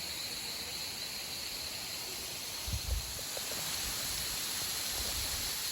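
Steady rushing hiss of a waterfall, growing slightly louder toward the end, with a couple of dull thumps about three seconds in.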